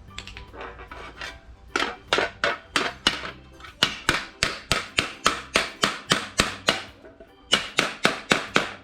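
Hammer blows on a steel sheet being shaped into a patch panel: sharp metallic strikes at about four a second, in three runs with short pauses between.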